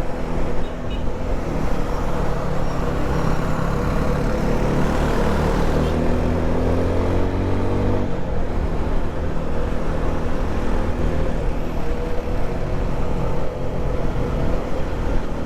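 Motorcycle engine running while riding, with wind and road noise. Its pitch rises over several seconds, drops sharply about eight seconds in, then holds steady.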